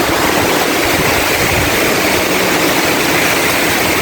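Heavy typhoon rain pouring down in a steady loud roar of noise, likely mixed with wind.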